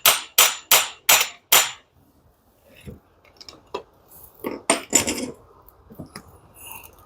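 A hammer striking metal five times in an even rhythm, about three blows a second, then stopping; after that, scattered lighter metallic clinks and knocks of tools being handled.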